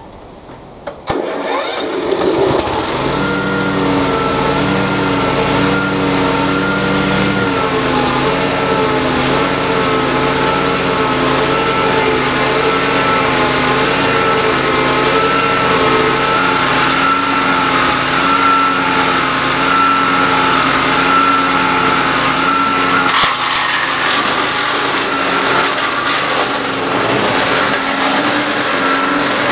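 The Hyundai HYCH7070E-2 wood chipper's 208cc electric-start engine starts about a second in, then runs steadily at speed, with a slight change in its tone around eight seconds in. A sharp knock is heard near the end.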